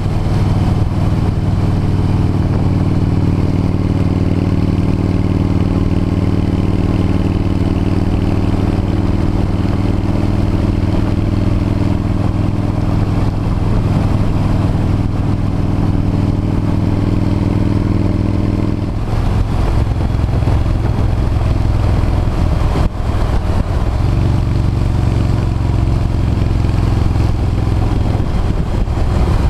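V-twin cruiser motorcycle engine running steadily at riding speed. Its note changes about two-thirds of the way through, with a short dip in loudness a few seconds later.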